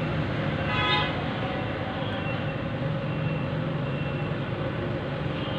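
Steady background noise with a low hum, and a brief pitched tone about a second in.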